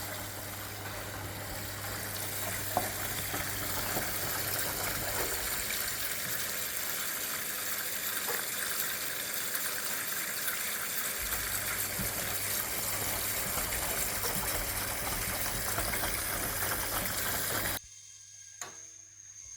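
1961 AEG Lavamat Noris washing machine taking in water: a steady rush of water with a low hum beneath it. The rush cuts off suddenly near the end, as the fill stops.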